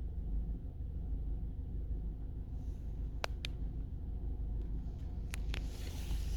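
BMW 318i N43 four-cylinder engine running steadily with a low rumble. Two pairs of sharp knocks come through it, the first about halfway through and the second about two seconds later, followed by a brief hiss near the end.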